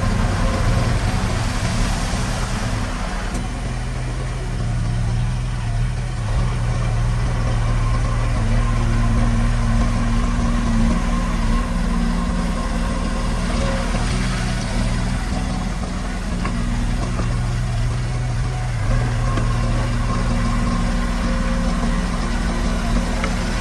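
Diesel engine of heavy construction machinery running steadily, its low note shifting slightly as the load changes.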